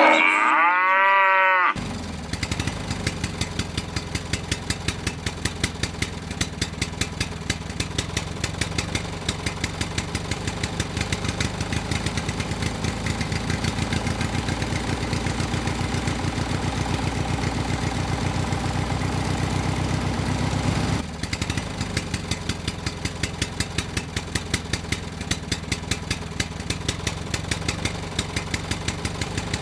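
A cow moos at the very start. Then a DIY mini tractor's motor runs steadily with a regular chugging beat, about two to three a second, dipping briefly about two-thirds of the way through.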